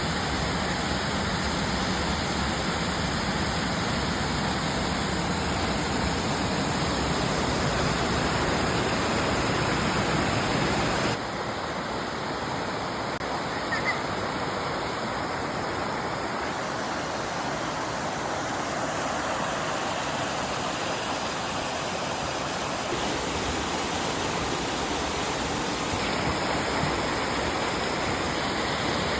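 Mountain valley stream rushing steadily over rocks, an even wash of water noise. About eleven seconds in it becomes slightly quieter and thinner in the low end.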